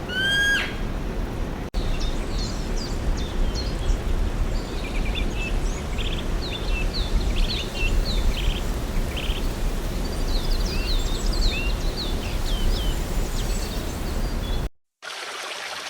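Birds chirping: many short high chirps and quick sweeping notes over a steady low rumble of background noise. The sound cuts out shortly before the end.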